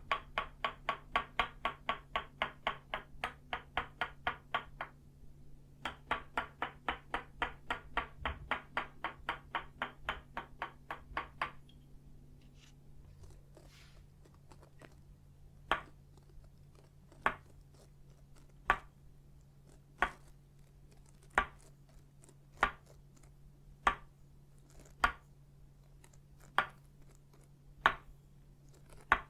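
Tok sen wooden mallet striking a wooden stake, both of itauba wood: rapid tapping at about five strikes a second in two runs with a short pause between. After a few faint taps, it changes to slow single knocks about one every 1.3 seconds.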